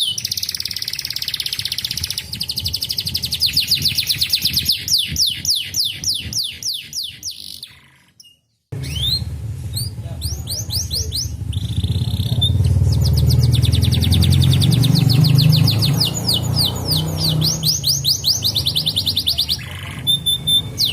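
Domestic canary singing fast trills of rapidly repeated down-slurred notes, with a brief break about eight seconds in. A low rumble runs under the song in the second half.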